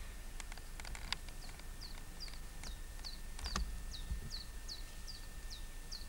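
A bird calling a steady series of short, high chirps that fall in pitch, about two and a half a second. A few faint clicks come in the first second, and a sharp knock about halfway through is the loudest sound.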